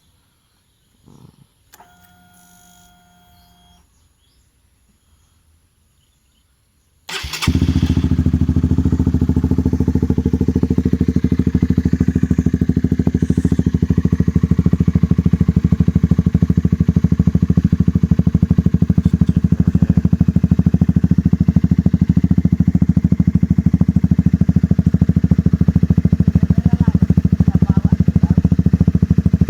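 Honda CBR150R's single-cylinder engine started after a few quiet seconds, then idling steadily through an SC Project aftermarket exhaust with a fast, even exhaust pulse.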